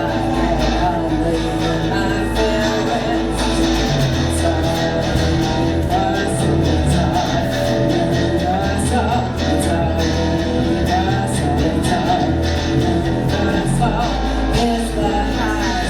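Live rock band playing, with electric guitar, bass, drums and a singing voice.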